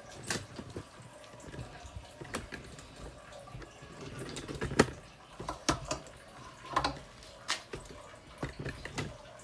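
Washed stones being placed into a pond filter tank as its first filtration layer, clinking and knocking irregularly. The loudest knock comes about five seconds in.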